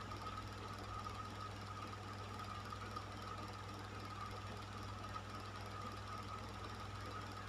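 Electric fan running steadily: an even whir of moving air over a low motor hum, with a faint tone that wavers slightly.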